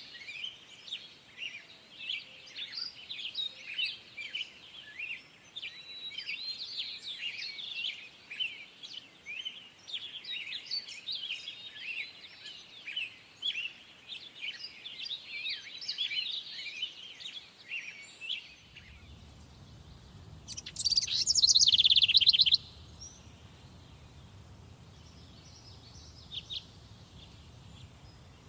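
Forest songbirds singing: for most of the time a dense chorus of many overlapping chirps and trills. After a sudden change about two thirds of the way in, a low hum runs underneath, one loud song phrase falls in pitch over about two seconds, a few faint calls follow, and another loud phrase starts at the very end.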